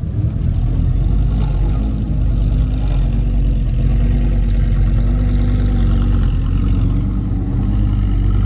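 A car engine running close by with a steady, loud low drone that wavers slightly in pitch.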